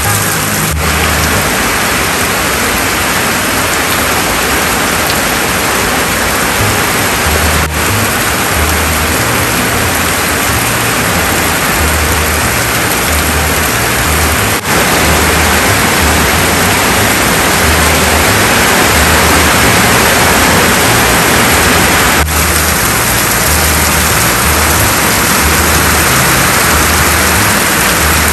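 Heavy rain pouring down steadily, a dense even hiss with short breaks about every seven seconds.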